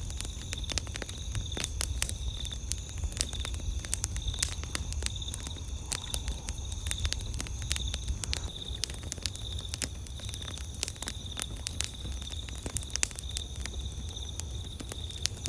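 Wood campfire crackling, with many irregular sharp pops and snaps over a low rumble. A steady high-pitched trill runs behind it.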